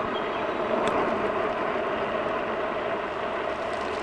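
Jansno X50 electric bike in motion: steady riding noise from the tyres and wind with a faint motor hum, and a single click about a second in.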